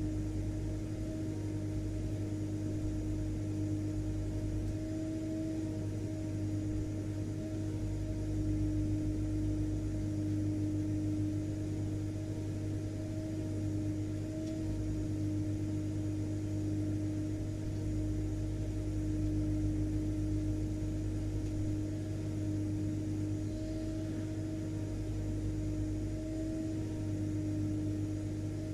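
Household vacuum cleaner (hoover) motor running continuously, a steady hum and hiss held at one constant pitch.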